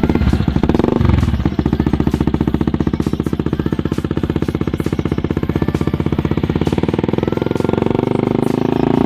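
Yamaha Vixion's 150 cc single-cylinder four-stroke engine running steadily at idle through an aftermarket racing exhaust, with a fast, even pulsing from the exhaust.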